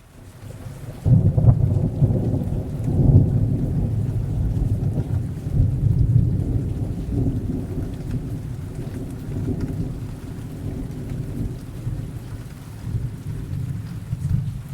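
A thunderclap breaks about a second in and rolls on as a long, deep rumble that swells twice and slowly fades, over steady rain.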